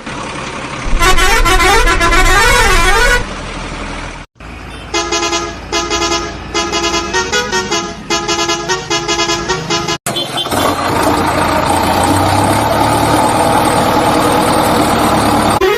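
Vehicle horn sound effects: a warbling horn for about two seconds, then a horn tune of short pulsed notes, then about five seconds of steady vehicle noise after an abrupt change near ten seconds in.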